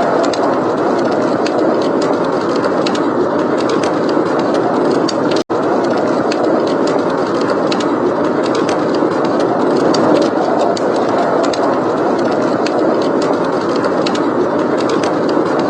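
Steady blizzard wind blowing, a dense rushing roar, with a fireplace crackling in small sharp pops throughout. The sound cuts out for an instant about five and a half seconds in.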